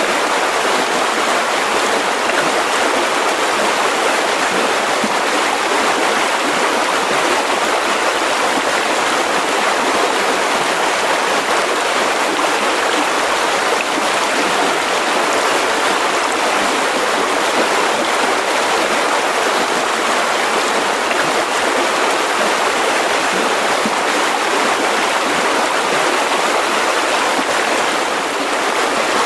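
Mountain river rushing over rocks: a steady, even rush of water without a break.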